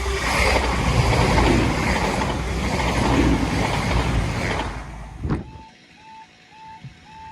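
A train passing close by, a loud rumble of wheels on rail that ends sharply about five seconds in. Then the foot crossing's warning tone sounds, a two-pitch beep repeating about twice a second.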